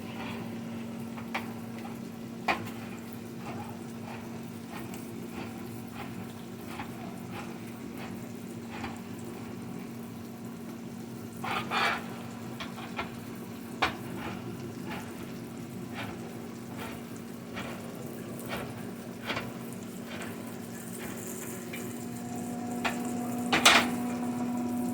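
Onion, bacon, peppers and garlic sizzling in a pan, with a utensil clicking and scraping against the pan now and then over a steady low hum.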